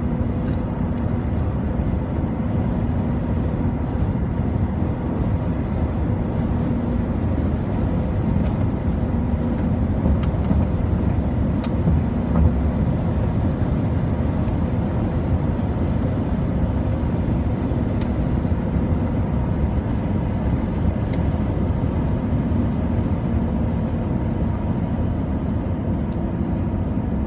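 Steady low rumble of a car travelling on the highway, with engine and tyre noise and a few faint ticks now and then.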